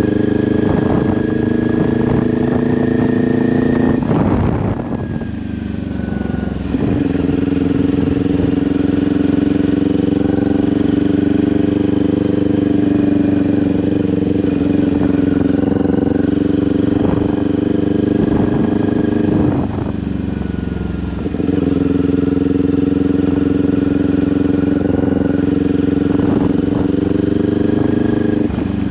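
2022 Kawasaki Ninja 400's parallel-twin engine running through an SC-Project aftermarket exhaust at steady cruising revs. Twice, about five seconds in and again about twenty seconds in, the engine note drops away briefly as the throttle eases, then it picks back up and holds steady.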